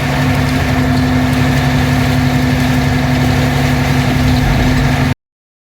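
Mack dump truck's diesel engine running steadily, heard from inside the cab as an even drone that cuts off abruptly about five seconds in.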